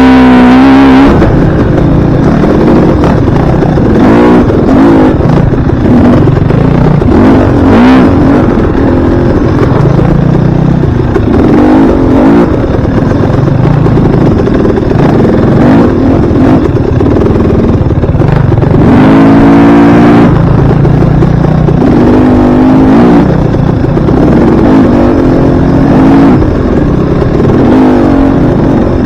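Dirt bike engine, loud and close, revving up and easing off over and over as the bike is ridden.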